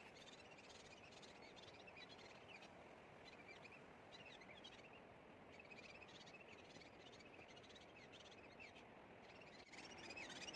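Faint outdoor ambience: small birds chirping in quick, repeated high notes over a steady background hiss. The chirping becomes louder and busier near the end.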